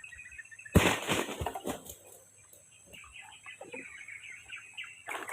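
Birds chirping continuously in the background, with a sudden loud burst of knocking and rustling about a second in that dies away within a second or so.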